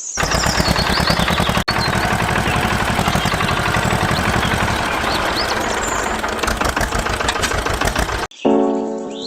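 A small engine running steadily with even firing pulses. It cuts off abruptly near the end.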